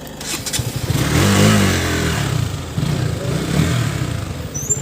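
KTM Duke 200's single-cylinder engine revving up as the bike pulls away: the note climbs and gets louder about a second in, then settles into a steady pulsing run.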